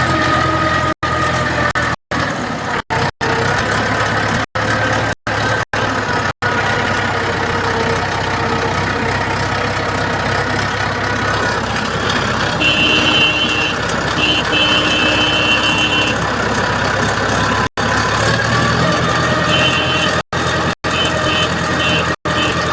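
A steady engine-like vehicle running sound, broken by several abrupt edit cuts. A rapid high-pitched beeping repeats about halfway through and again near the end.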